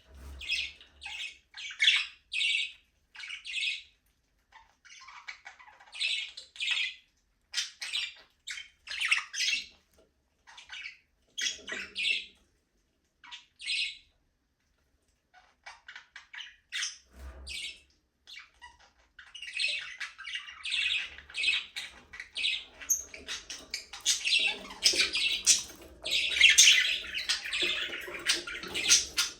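Flock of budgerigars chirping and squawking: scattered short calls, a brief lull about halfway, then dense overlapping chatter over the last third, loudest near the end.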